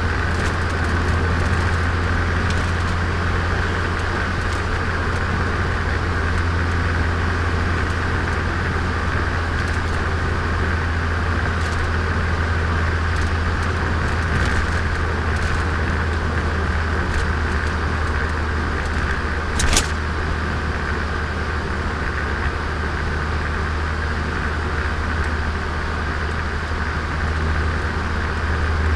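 Turbocharged Nissan Micra cruising: a steady low engine drone with road noise, heard from inside the car, and a brief high-pitched chirp about two-thirds of the way through.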